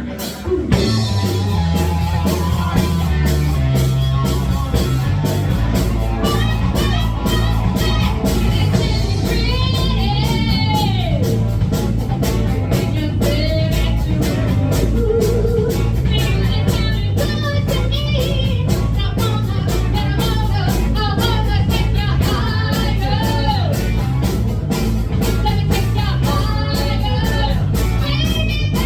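Live rock band playing a song: electric guitar, bass and drums with a lead singer, loud and steady.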